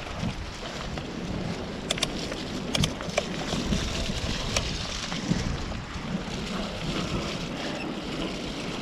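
Mountain bike rolling over a dirt trail: tyre and wind noise rushing on the helmet microphone, with a few sharp clicks and rattles from the bike a couple of seconds in.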